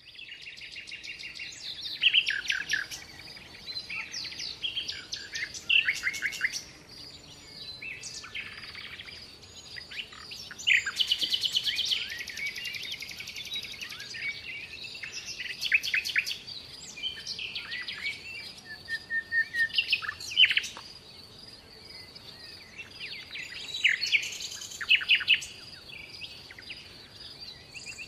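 Songbirds singing: a busy mix of chirps, quick trills and rapid repeated notes, over a faint steady high-pitched tone.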